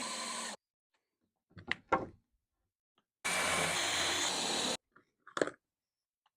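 A power drill running in short bursts driving into wood: one burst cuts off just after the start and another runs for about a second and a half in the middle, with a few light knocks of wood between them.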